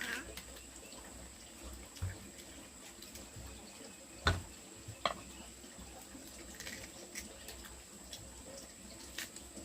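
A few scattered light knocks and clicks over a low steady hiss, with a thin, faint high whine throughout; the sharpest knock comes a little past the middle.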